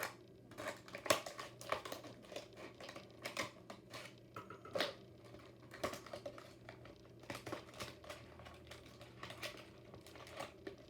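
Plastic and cardboard packaging of a diecast model car being handled and opened: irregular crinkling with many small clicks and taps.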